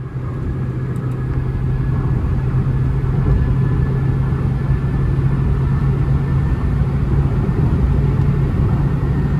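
Interior sound of a Honda City's 1.5-litre four-cylinder petrol engine running at a steady pitch at highway speed, with tyre and road rumble underneath. It fades in over the first second, then holds steady.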